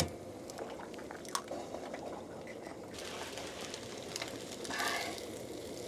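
Eggs sizzling quietly in a cast iron skillet, with a few sharp clicks.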